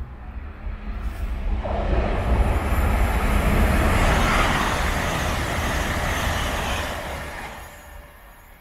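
Passenger train passing at speed: a rushing, rumbling noise of wheels on rails that swells about two seconds in, holds, then fades away near the end.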